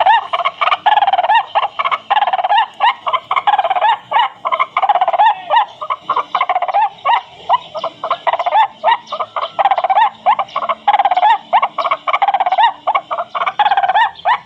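Recorded bird calls played back from an MP3 bird-caller box: loud, rapid chirping notes repeated in quick succession. They start suddenly and go on without a break.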